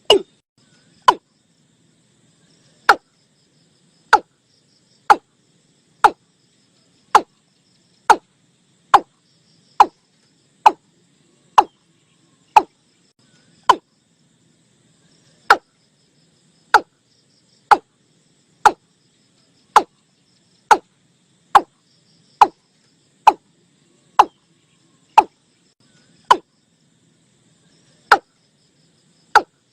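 Watercock calls: short, loud notes that drop in pitch, repeated about once a second, with a few pauses of two or three seconds between runs.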